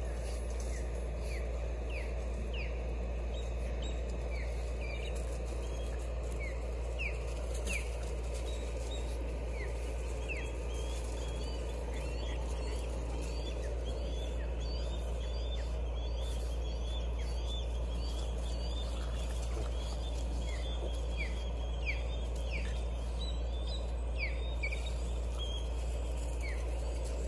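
Birds chirping: many short, falling chirps scattered throughout, over a steady low rumble.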